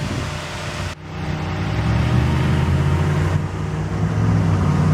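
2007 Mitsubishi Galant GTS's 3.8-litre V6 idling steadily. The sound dips briefly about a second in, then comes back louder.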